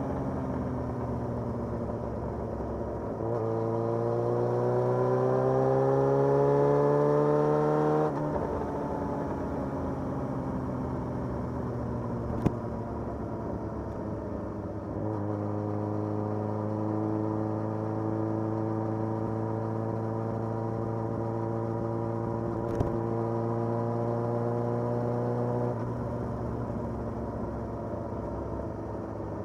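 Motorcycle engine heard from the rider's seat, rising in pitch under throttle a few seconds in, dropping off around eight seconds, then holding a steady cruising note before easing off near the end. Two sharp clicks cut in along the way.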